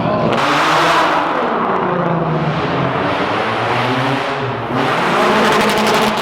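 Car engine revving hard, its pitch climbing and falling several times, with loud rushes of noise as it winds up near the start and again near the end.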